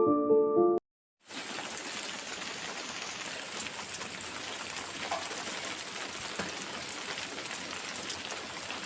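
A piano tune ends about a second in, and after a brief gap heavy rain falls steadily, a dense, even hiss.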